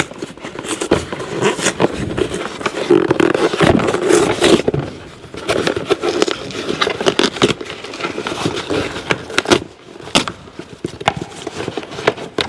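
A cardboard parts box opened by hand and its packaging handled: rustling broken by many short clicks and knocks.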